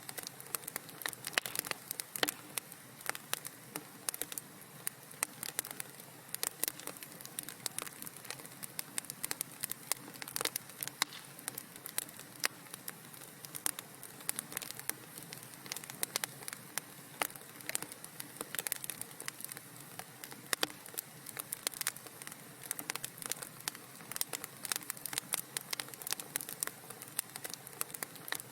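Wood fire in a fireplace crackling: many small irregular pops and snaps over a soft steady hiss.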